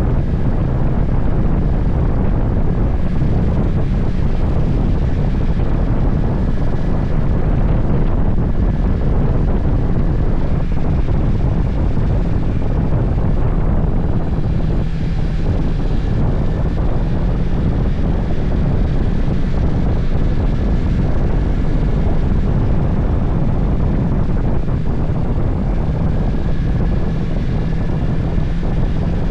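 Motorcycle engine running at steady speed under heavy wind rush on the microphone while riding. A faint engine hum rises through the noise near the end.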